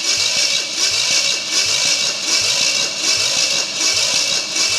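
Chevrolet 327 small-block V8 being cranked over by its starter motor with the spark plugs out, for a compression test of its last cylinder. The starter whines steadily, with a rhythmic chug two or three times a second.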